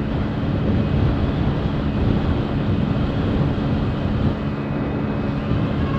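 Hero Splendor's 100 cc single-cylinder engine running flat out at a steady high speed, a constant drone under a rush of wind and road noise, pushed toward its top speed.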